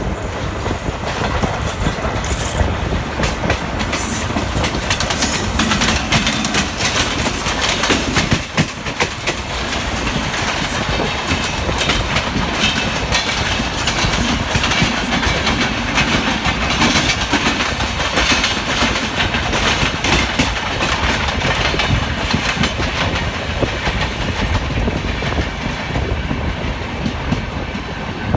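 Indian express passenger train running at speed, with its wheels clattering steadily over the rail joints.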